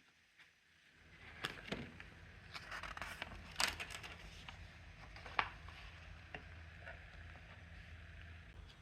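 A steady low mechanical hum comes on about a second in, with a few sharp clicks and knocks over it.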